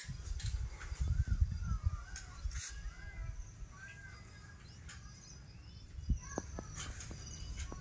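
Birds calling: a run of short, arched whistled notes over the first few seconds, with a few fainter notes later, over a low rumble on the microphone.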